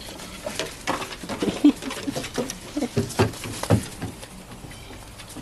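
A quick, irregular run of light thumps and scuffling footfalls, animals scampering about for about four seconds, with a few louder thumps in the second half.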